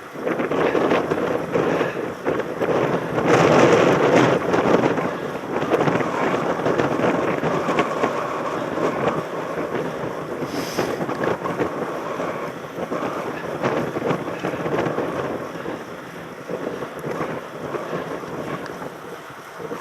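Wind buffeting a helmet-mounted camera's microphone during a mountain bike ride, with the dense rattle of the bike over rough ground. It is loudest a few seconds in and eases a little near the end.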